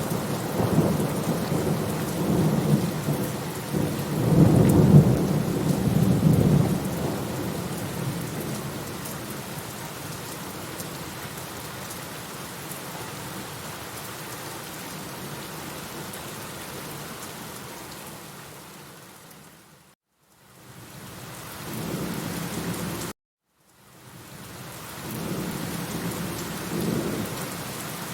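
Steady rain falling, with rolling thunder rumbling loudest over the first several seconds and swelling again near the end. The sound fades out briefly about two-thirds of the way through and then cuts off suddenly for a moment.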